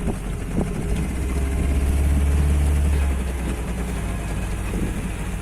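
Motorboat engine running steadily with a low hum, getting louder for a second or two about a second and a half in.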